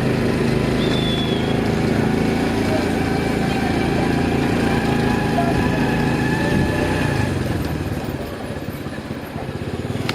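Motorcycle engine running steadily while riding, with road and wind noise; it drops in level for a couple of seconds near the end.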